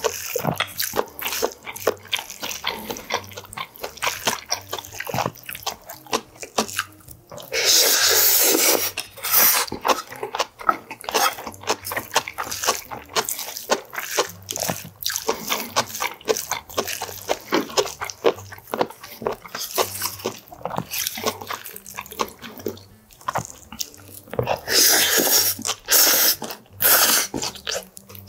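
Close-miked chewing and wet mouth sounds of eating sea cucumber bibimbap, many small irregular clicks and smacks, with a wooden spoon scooping in a brass bowl. Twice, about a third of the way in and near the end, a louder noisy stretch of a second or two.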